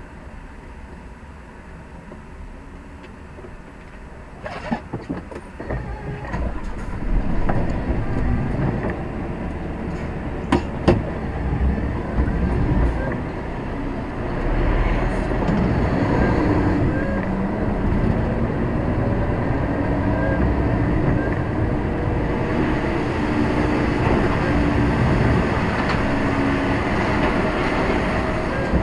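Lorry's diesel engine heard from inside the cab as it pulls away and drives on, with sharp clunks and rattles about five and eleven seconds in. The engine note grows louder in the second half and then holds steady.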